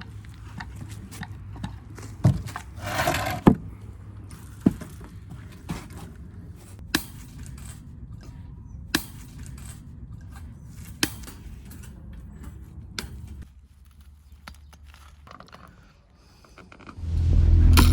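A string of sharp knocks or clicks, roughly one every one to two seconds, over a low steady hum that drops away later on; loud music comes in near the end.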